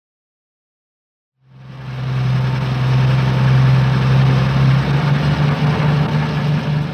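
Vehicle engine sound effect, running steadily with a deep hum. It fades in after about a second and a half of silence.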